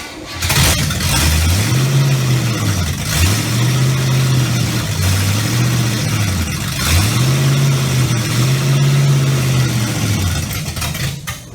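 Freshly rebuilt small-block Chevy V8 running and being revved in about five throttle blips, its pitch rising and falling each time. It cuts off near the end.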